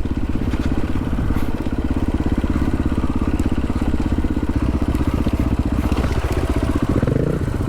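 Dual-sport motorcycle engine running steadily with a rapid, even pulse as the bike rides along a dirt trail.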